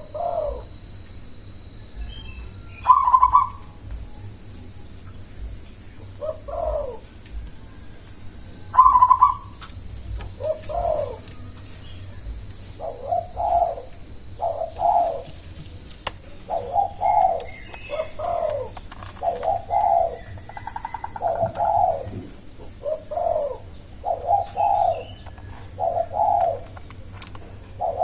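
Zebra dove (perkutut) singing: a run of short, rhythmic coos that comes sparsely at first and quickens to a dense string of notes about halfway through. A faint steady high-pitched tone sits underneath.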